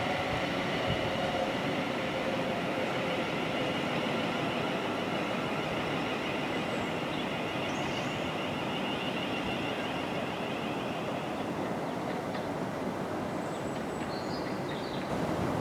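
A train running through on the line: a steady rumble with high ringing tones that fade away about three-quarters of the way through.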